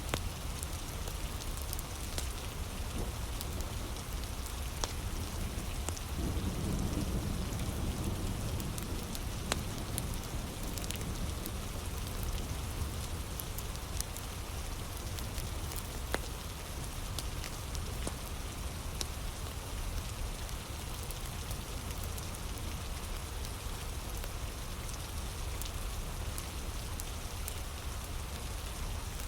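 Heavy rain falling steadily, with scattered sharp crackles and pops from a wood fire close by. A low rumble swells for a few seconds about six seconds in.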